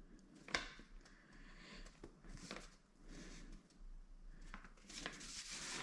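Faint handling noises: a few small clicks and soft rustles, with the sharpest click about half a second in.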